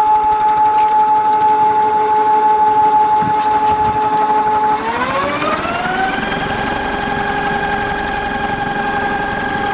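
36N48P brushless electric motor running on the bench at 25 V with a steady whine. About five seconds in, the whine rises smoothly in pitch over about a second and then holds steady higher as the motor speeds up.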